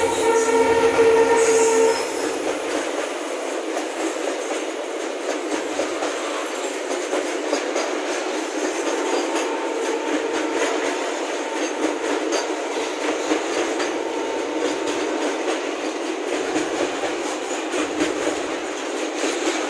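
A train horn sounds one steady blast for about the first two seconds as a container freight train's locomotive passes close by, then the wagons rumble and clatter past on the next track.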